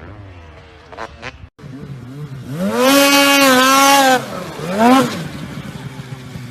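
Motocross bike engine revving hard: the note climbs to a high held pitch for about a second and a half, then drops away, and a second, shorter rev rises and falls about a second later. A fainter engine runs underneath before these revs.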